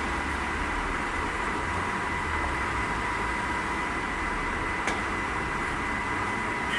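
Bulgarian C11 MSM engine lathe running under power, a steady gearbox whine over a low rumble, with one small click about five seconds in.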